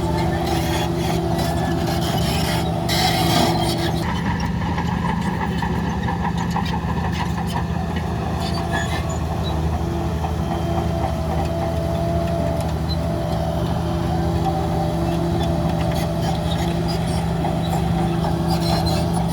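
Heavy diesel engine of earth-moving machinery running steadily, with a steady low hum, and rattling and clanking during the first few seconds.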